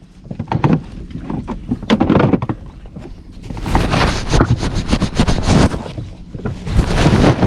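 Wind gusting on the microphone, with irregular knocks and rustles, swelling loud twice in the second half.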